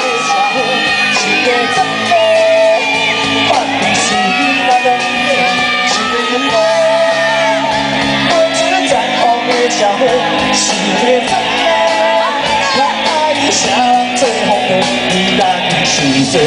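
Live band playing loud amplified music, with a singer and shouted vocals over it.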